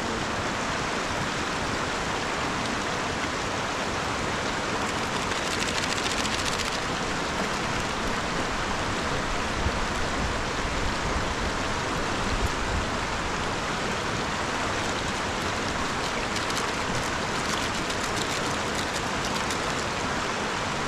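River water rushing, a steady wash of noise.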